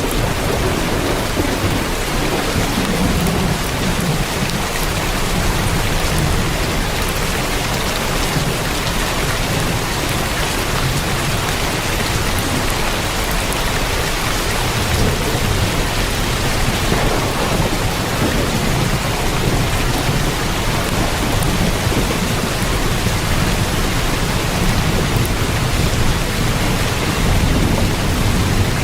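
Heavy rain pounding steadily on a tin roof, a dense unbroken hiss, with low rumbles of thunder swelling a few times.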